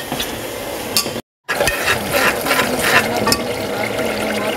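Onion, tomato and spice masala sizzling in oil in an aluminium pressure cooker while a slotted metal spoon stirs it, scraping and clinking against the pot. The sound cuts out for a moment about a second in, then carries on.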